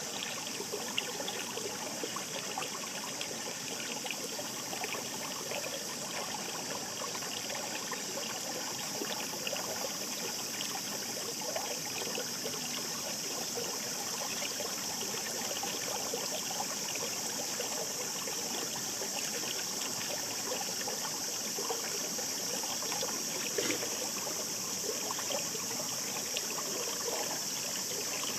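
Shallow stream babbling: a steady rush of water with a dense patter of small splashes and gurgles.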